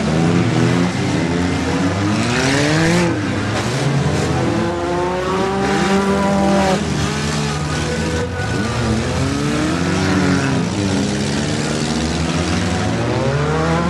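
Several demolition derby cars' engines revving hard, their pitches rising and falling against each other, with a noisy burst around two to three seconds in and a few short bangs, typical of cars ramming each other.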